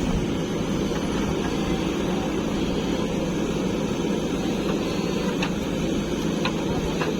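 Diesel engine of earthmoving machinery running steadily, with a few faint clicks near the end.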